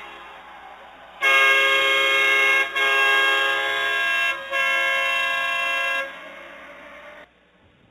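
Arena goal horn sounding to mark a goal, three long steady blasts in a row, then fading out.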